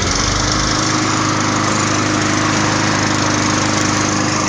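Push lawnmower's small engine running steadily at speed, with the blade-brake handle clamped down by vise grips. That it runs this way shows a stretched brake cable was keeping it from starting.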